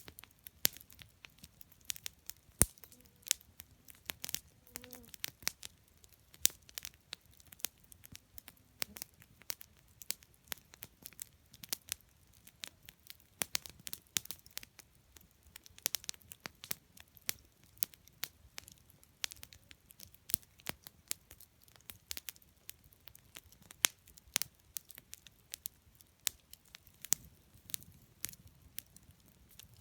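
Wood campfire crackling: irregular sharp pops and snaps of burning wood, several a second.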